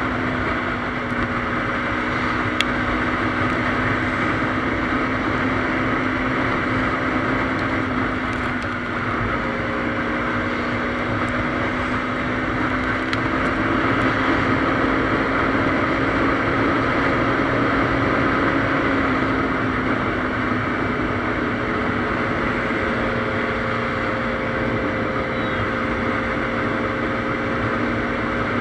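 Motorcycle engine running steadily while riding, its pitch shifting slightly a couple of times, with wind rushing over the microphone.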